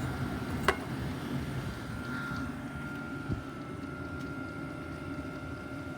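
Steady low machine hum with a thin, steady high whine, and a sharp click about two-thirds of a second in.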